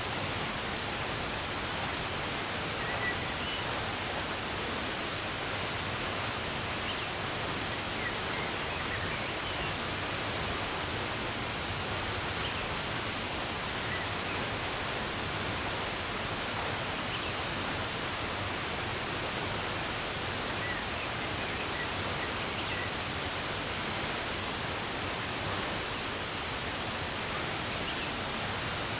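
Running water with a steady, even rush, and faint, scattered bird chirps over it.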